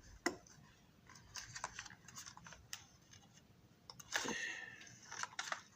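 Small clicks, taps and rustling scrapes of hands handling and fitting a glued plastic part into a model railroad dome car body, with a busier stretch of scraping about four seconds in.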